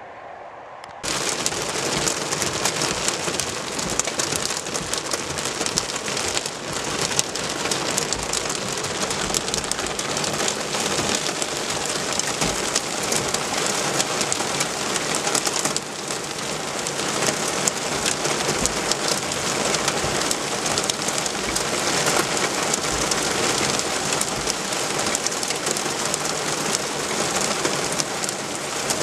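Hail about 1 cm across, with heavy rain, pelting down in a heat thunderstorm: a dense, steady hiss packed with sharp ticks. It starts suddenly about a second in.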